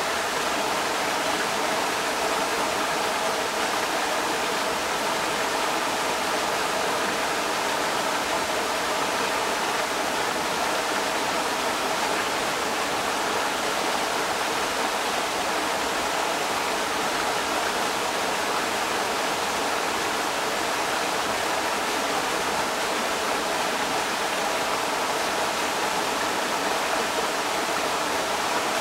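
Creek water rushing over rocks, a steady, unbroken splashing rush.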